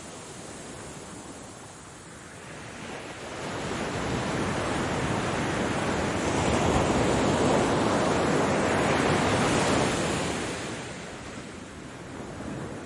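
Ocean waves breaking and washing on a shore: one wave swells up about three seconds in, is loudest through the middle, and draws back near the end.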